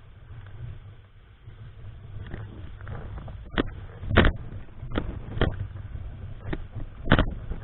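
Strong typhoon wind buffeting the microphone in a steady low rumble. From about halfway come a string of sharp, irregular thumps, the loudest a little after four seconds in.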